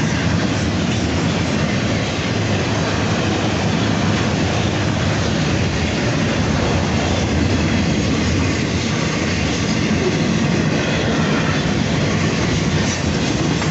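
A train rolling past at close range: a steady, loud rumble of wheels on rail with clickety-clack over the rail joints.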